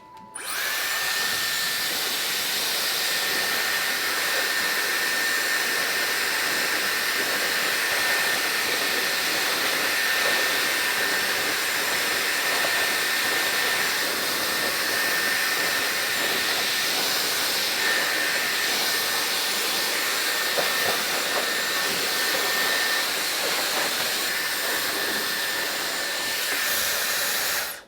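Dyson hair dryer switched on and blowing steadily, a loud even rush of air with a thin, steady high whine. It cuts off abruptly at the end.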